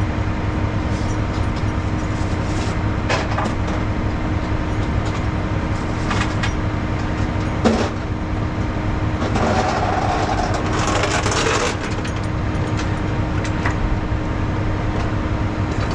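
Diesel engine of a tri-axle rollback truck idling steadily, with a few sharp knocks and a stretch of hissing or rattling about 9 to 12 seconds in.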